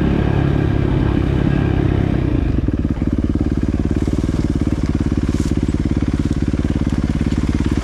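Dirt bike engine running under throttle, then settling to a steady idle about three seconds in.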